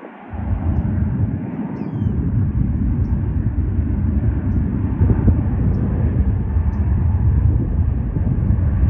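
Jet airliner engines giving a loud, steady low rumble that comes up about a third of a second in and holds.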